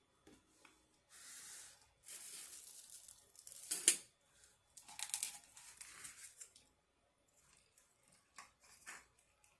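Takeout food packaging being torn open and crinkled by hand: several rustling tearing bursts, a sharp click about four seconds in, then a few light handling clicks.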